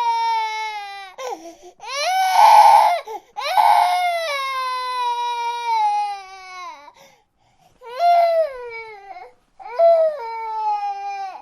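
Baby crying in long wails, each falling in pitch, about five cries with short breaths between, the second one harsher and strained.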